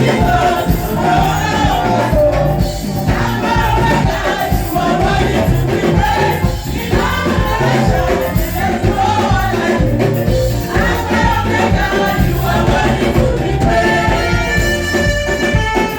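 Live gospel praise music from a band with a steady beat, with singing over it.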